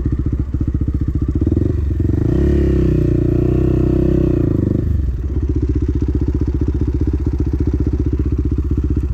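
Small dirt bike engine running with a steady pulsing beat. Its speed rises for a few seconds and falls back to a low run, and the engine cuts out at the very end as the bike is parked.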